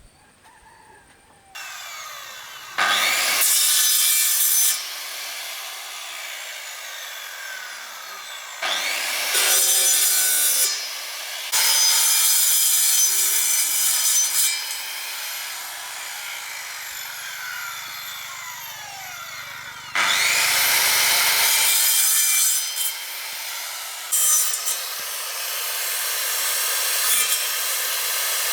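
Electric power tool working wood, running steadily with four louder stretches of a few seconds each as it bites into the material.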